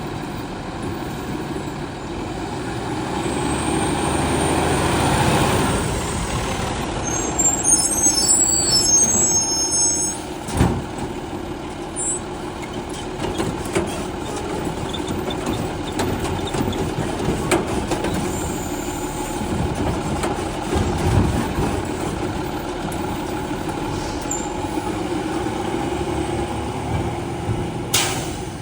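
Heil STARR automated side-loader garbage truck running, its engine and hydraulics working steadily, with several sharp knocks and hisses typical of air brakes and the loading arm.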